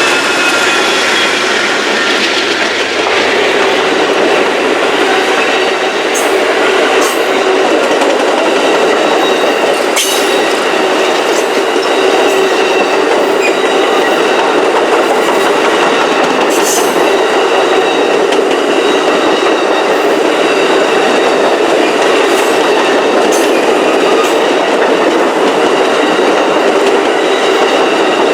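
Train rolling past close by: a loud, steady rush of steel wheels on rail, with a few sharp clicks over rail joints and a thin, faint wheel squeal.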